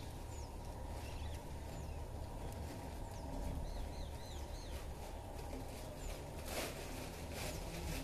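Small birds chirping in short, thin calls, with a run of three quick rising-and-falling calls about four seconds in, over a steady low rumble. A short burst of noise about six and a half seconds in is the loudest sound.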